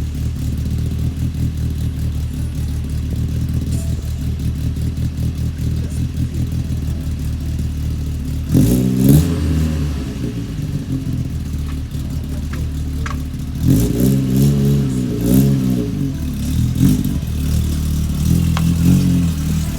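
VW Rabbit Pickup's 8-valve four-cylinder engine idling through a Techtronic full exhaust, blipped once about eight seconds in. It then gets a run of quick revs a few seconds later and another short rev near the end.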